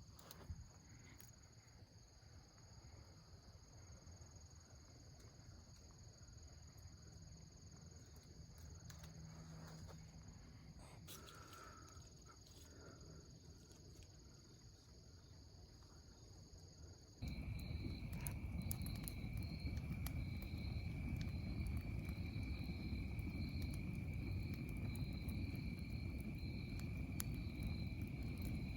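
A steady high-pitched chorus of insects in the woods, with a few faint rustles and clicks. About two-thirds of the way through, the sound cuts abruptly to a louder stretch: a low rumbling noise under a different insect chorus, one part of it a rapid pulsing trill.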